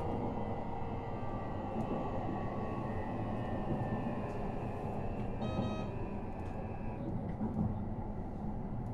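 Toei 5500 series electric train running, heard inside the car: steady wheel-and-rail rumble with a motor whine whose pitch slowly falls as the train slows, the whine fading out about seven seconds in. A brief high, ringing multi-tone sound comes just past halfway.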